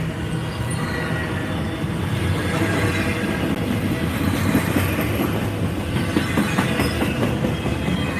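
Double-stack container freight train rolling past: a steady rumble of steel wheels on the rails with rapid clicking as the wheels cross rail joints, thickest about halfway through.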